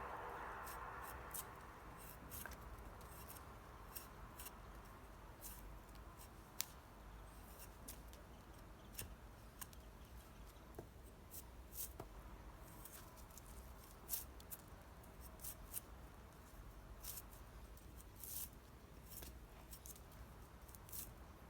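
Faint, irregular sharp clicks and crackles over a low steady hum, after a band of noise fades away in the first couple of seconds.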